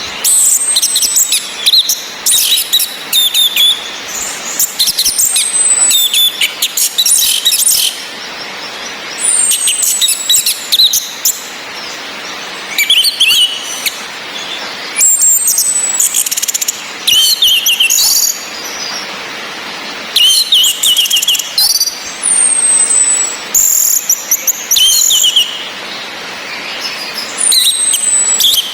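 Orange-headed thrushes calling and singing: a high thin whistle that falls slightly in pitch repeats every two to three seconds among quick chirping song phrases. Under them runs a steady hiss of rain.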